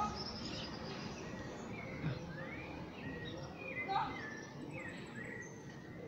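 Several short chirping bird calls, some sliding up or down in pitch, over steady outdoor background noise, with a faint high trill now and then.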